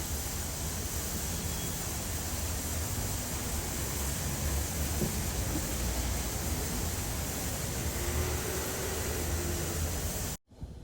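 Steady rushing hiss with a low rumble underneath from an automatic car wash bay, heard from inside the car, cutting off abruptly near the end.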